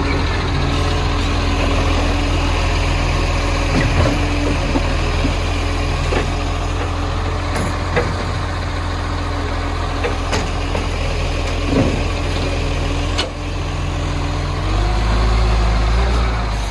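Garbage truck's diesel engine idling steadily, with several sharp clunks spread through it. Near the end the engine revs up.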